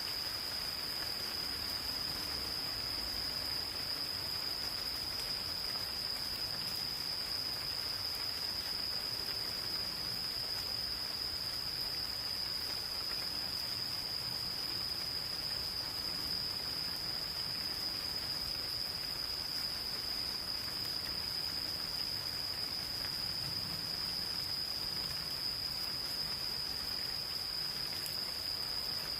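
Insects singing one continuous, unbroken high-pitched trill over the soft patter of gentle rain.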